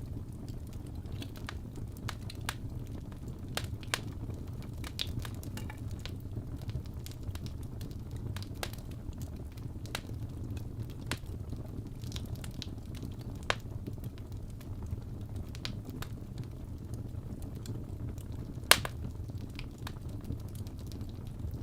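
Wood fire crackling in a fireplace: scattered sharp pops over a steady low rumble, with one louder pop near the end.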